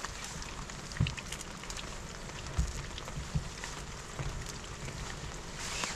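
Steady rain falling, an even hiss with scattered drop ticks and a few dull low thuds about a second, two and a half seconds and three and a half seconds in.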